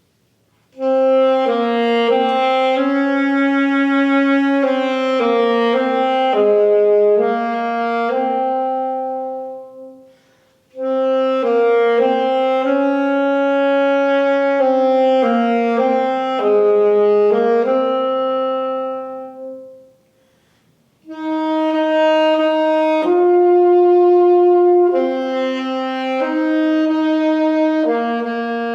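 Solo wind instrument playing an unaccompanied melody one note at a time, in three phrases with short pauses for breath between them.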